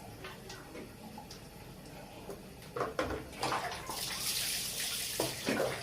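Water splashing in a bath basin as a baby civet is washed, with louder splashes about halfway through and a steady rush of running water starting about four seconds in.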